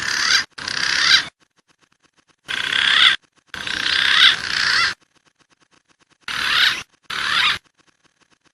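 Wild pigeon calls from a bird-lure recording: six harsh, rasping bursts, each under a second and a half long, with short gaps between them and faint ticking in the gaps.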